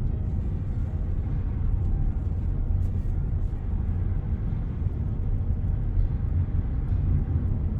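Steady low road and engine rumble heard from inside the cabin of a car driving along.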